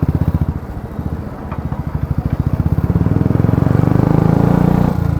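Motorcycle engine running with a steady, fast exhaust beat while riding in slow traffic. It grows louder from about three seconds in as the bike picks up.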